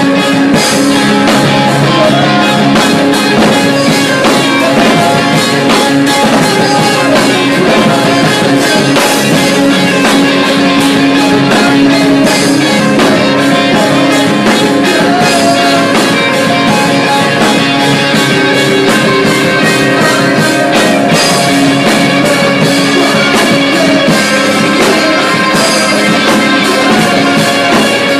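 Rock band playing loud, with electric guitars over a drum kit keeping a steady, driving beat.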